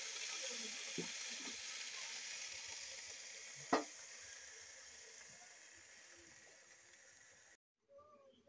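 Fresh leafy greens (saag) sizzling in a hot pan, a steady frying hiss that slowly fades. One sharp knock comes about halfway through.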